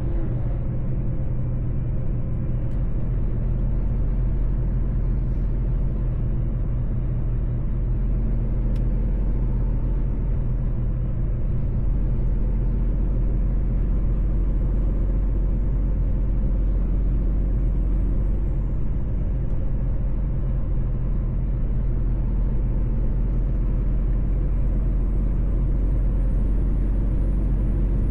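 Mercedes-Benz truck's diesel engine running steadily under way, a low drone with road rumble at constant level. A faint high whistle rises and falls in pitch in the second half.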